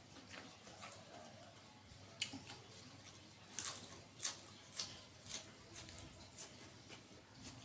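Mouth chewing a bite of raw leafy greens: a sharp crunch a little past two seconds in, then crisp chewing crunches about twice a second.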